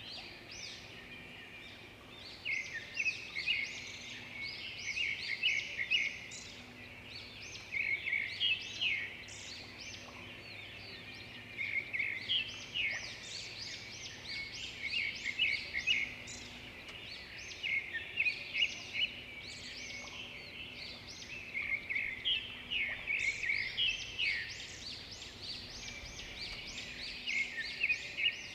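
Songbirds singing: phrases of fast, high chirps and trills that keep recurring, a few seconds apart, over a faint steady background hum.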